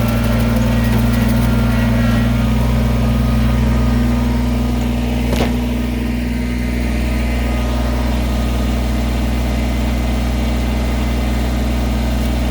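An engine idling steadily, with one sharp click about five seconds in.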